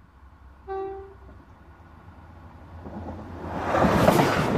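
Train horn giving one short toot about a second in, then the train's running noise building quickly as it approaches and passes directly over the microphone between the rails, loud by near the end, with a sharp clack just before the end.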